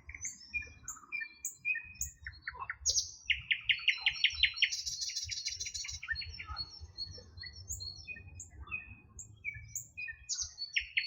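Songbirds singing: many short, quick sweeping chirps with a fast, even trill about three seconds in, over a low rumble.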